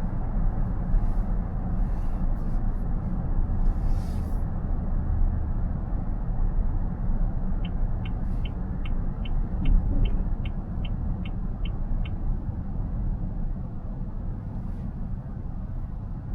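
Steady road and tyre rumble inside a moving car's cabin. From about eight seconds in, the turn-signal indicator ticks evenly, about three times a second, for some four seconds, the car signalling.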